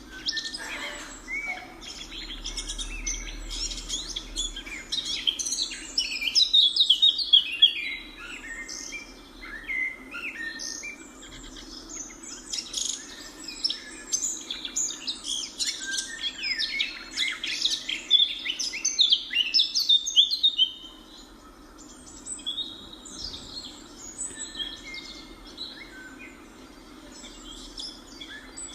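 A flock of birds calling and chirping together, many overlapping short notes, busiest for the first twenty seconds and thinning out near the end, over a steady low hum.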